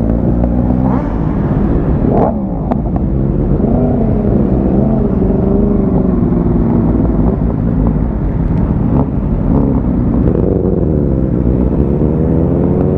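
Motorcycle engines idling, with the pitch rising and falling several times as the throttle is blipped.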